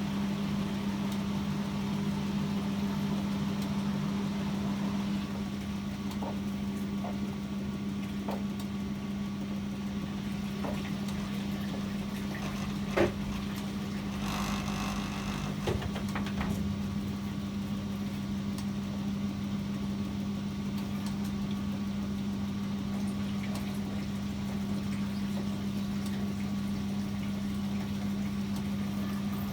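Privileg 804 washing machine running through its cycle: a steady low hum, with scattered clicks and knocks. The sharpest knock comes about 13 seconds in, followed by a brief rattle.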